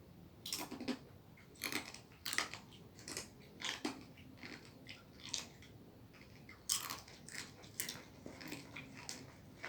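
A person biting and chewing crunchy food close to the microphone: irregular crunches, one every half second to a second.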